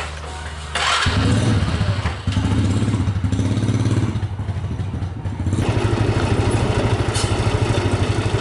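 A small engine running with a fast, even pulsing beat that comes in louder about a second in after a short noisy burst, shifting in tone a couple of times.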